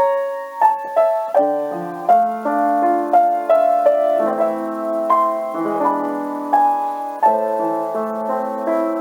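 Slow, elegiac piano music: chords and a melody, with notes struck roughly every half second to a second and left to ring out.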